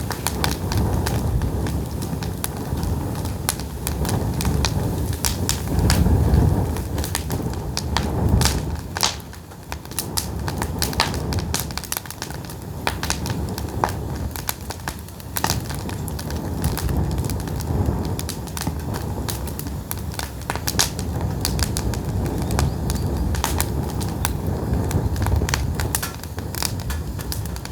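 Pine firewood burning, with frequent sharp pops and crackles over a steady low rumble.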